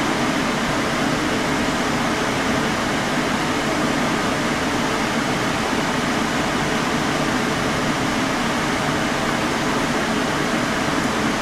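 Steady hum and hiss of a fan-driven machine running, unchanging throughout.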